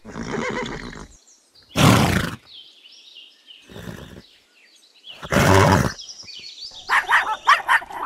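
A horse calling in short, noisy outbursts: one at the start, a loud one about two seconds in, a fainter one near four seconds and another loud one past five seconds. In the last second, puppies start yipping in quick succession.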